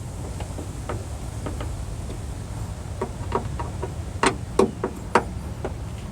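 Hand tool with a T30 Torx bit working the door's Torx bolts loose: scattered light clicks, with a few louder, sharper clicks about four to five seconds in.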